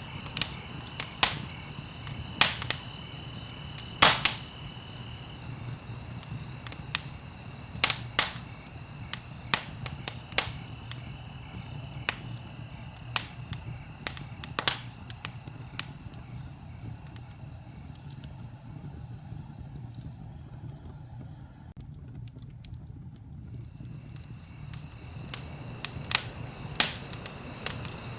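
Wood fire crackling in a fireplace: irregular sharp pops and snaps, the loudest about four and eight seconds in, over a low steady rumble. A faint, steady, high-pitched tone sits behind it; it fades out in the middle and comes back near the end.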